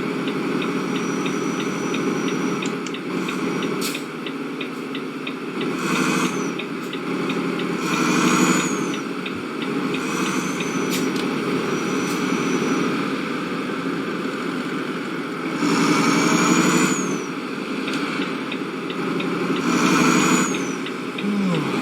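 Vehicle running on the road with steady engine and road noise, swelling louder four or five times for about a second each.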